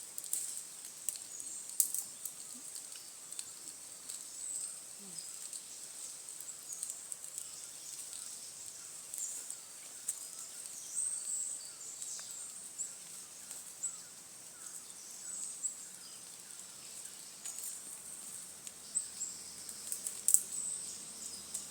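Forest ambience of insects giving a steady high-pitched trill, with scattered sharp clicks, the loudest about two seconds in and near the end.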